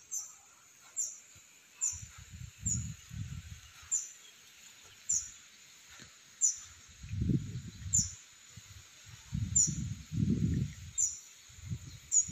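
A small young bird calling with short, thin, high chirps, each sliding down in pitch, repeated about once a second. Low muffled rustling and bumps come and go between them.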